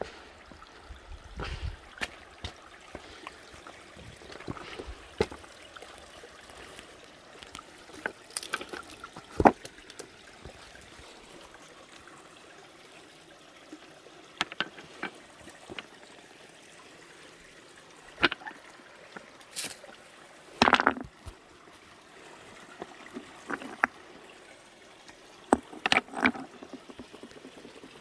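Mountain valley stream trickling over stones, with sharp clicks and knocks now and then.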